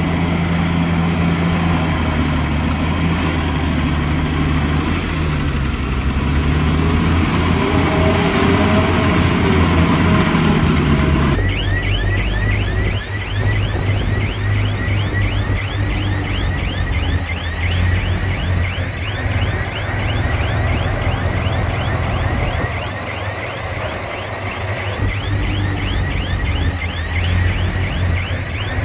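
Heavy diesel earthmoving machine engine running, its pitch dipping and rising partway through. About eleven seconds in the sound changes abruptly to a lower engine hum overlaid with a fast, even train of short high squeaks, about three to four a second.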